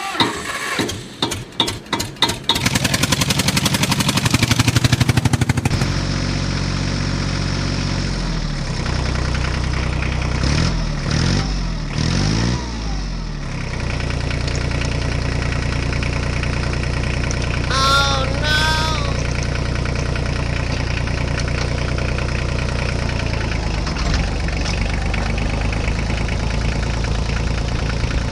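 A tractor engine runs steadily at a low idle, with a few revs rising and falling in pitch about ten to thirteen seconds in and two short horn honks near eighteen seconds. Before the engine starts, the first six seconds are a rapid series of sharp clicks and then a bright buzzing sound.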